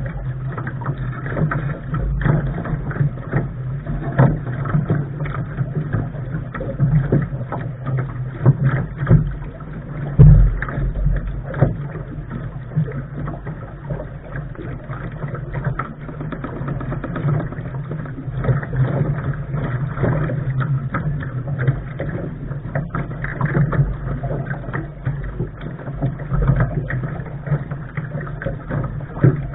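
Lark sailing dinghy under way: continuous rushing, rumbling noise of water and hull movement, with frequent small knocks and one heavy thump about ten seconds in.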